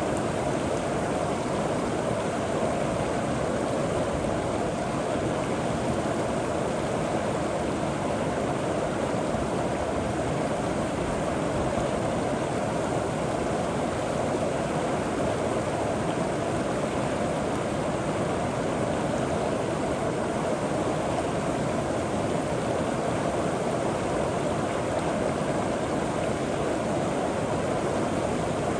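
River water flowing and rushing over rocks, a steady, even sound with no breaks.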